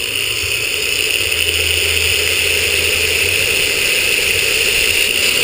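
Power drill running steadily at speed, boring a hole.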